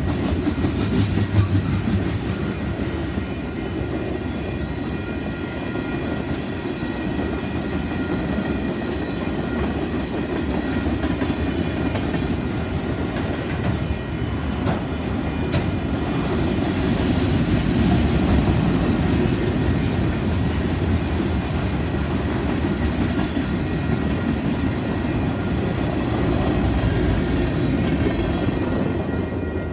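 Freight cars of a CP freight train rolling through a level crossing: a steady rumble of wheels with clickety-clack over the rail joints, while the crossing's warning bell rings. The rumble falls off near the end as the last car clears the crossing.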